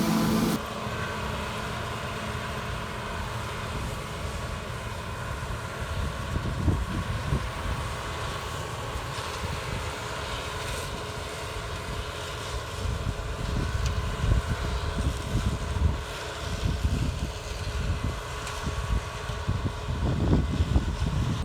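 Farm machinery engine running steadily at a distance, with gusts of wind rumbling on the microphone. A louder, closer engine cuts off abruptly about half a second in.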